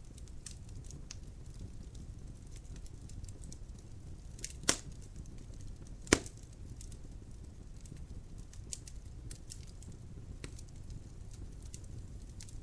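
Wood fire crackling in a fireplace, a low steady rumble with scattered light snaps and two loud pops, about a second and a half apart, near the middle.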